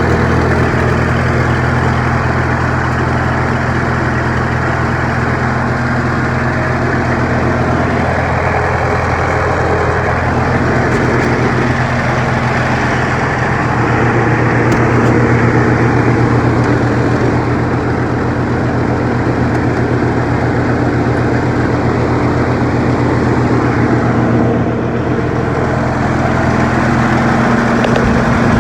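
Farmall M tractor's four-cylinder engine idling steadily just after a cold start.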